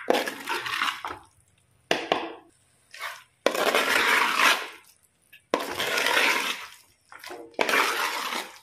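Raw chicken pieces sizzling as they fry in ground masala and oil in a clay pot, stirred with a metal ladle. The hiss comes in several bursts of a second or two, each starting suddenly, with short silent gaps between.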